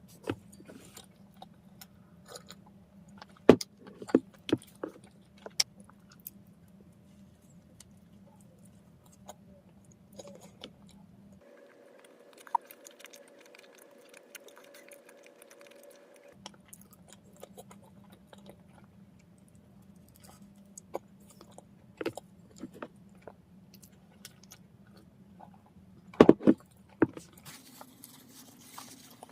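Close-up eating sounds: bread being bitten and chewed, with scattered sharp clicks and crackles from handling the food, over a steady low hum. The loudest cluster of clicks comes a few seconds before the end.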